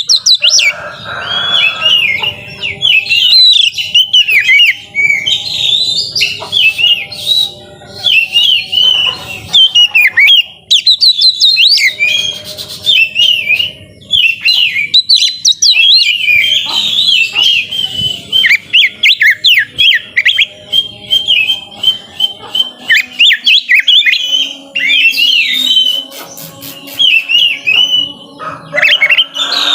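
Oriental magpie-robin (kacer) singing in full song: a fast, nearly unbroken stream of loud whistled notes, trills and sweeping glides with only brief pauses.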